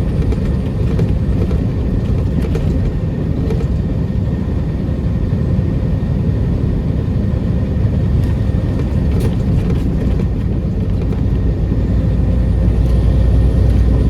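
Semi truck's diesel engine and road noise heard from inside the cab while driving, a steady low rumble that grows a little louder near the end.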